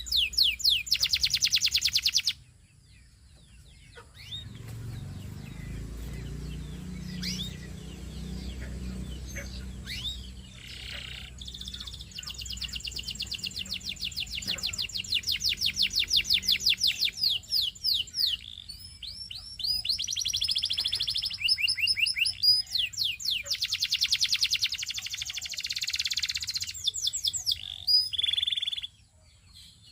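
Domestic canary singing: runs of fast, evenly repeated high trilled notes, broken by a quieter spell of scattered chirps of several seconds near the start.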